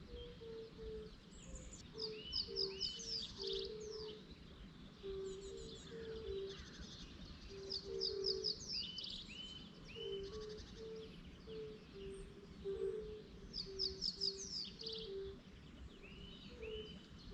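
Songbird singing a short phrase of quick, falling high notes that end in a few lower whistles, repeated about every six seconds. Beneath it runs a steady series of short low notes at two alternating pitches, over a low background rumble.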